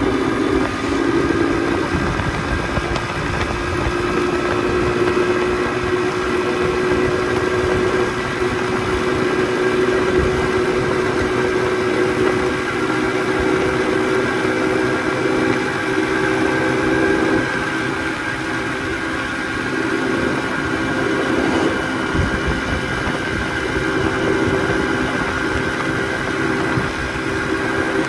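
Motorcycle engine running steadily at an even speed, with a rough low rumble underneath.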